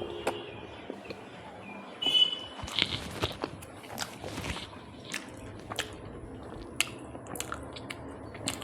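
Close-miked eating sounds: chewing and biting with wet mouth clicks, busiest and loudest from about two to five seconds in.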